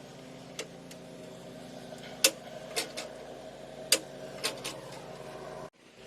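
About eight sharp clicks and knocks, spaced irregularly, from tools and parts being handled while reassembling a lawnmower, over a steady hum. The sound cuts out abruptly near the end.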